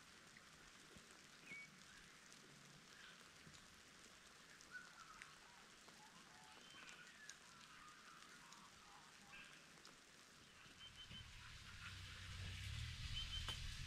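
Faint outdoor ambience: light rain with scattered short bird chirps. Near the end a low steady hum rises in.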